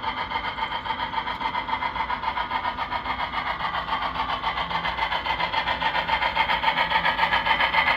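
Model steam locomotive running along the layout track: a steady mechanical hum with a quick, even beat of about six pulses a second, growing a little louder toward the end.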